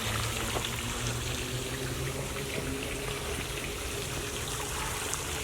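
Water trickling and running steadily, as from a garden stream or small waterfall.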